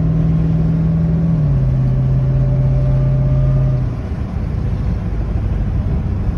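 Mercedes 500SEC's 5.0-litre V8 pulling steadily under way, heard from inside the cabin. Its engine note steps down in pitch about a second and a half in. A little before four seconds in the engine note falls away, leaving road and tyre rumble.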